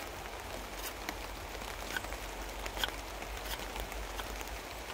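Rain on a tarp overhead: a steady hiss with a few scattered sharp ticks.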